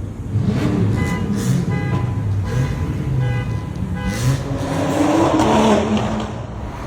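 Car engines revving and accelerating, the engine note rising and falling, with one long climb in pitch near the end.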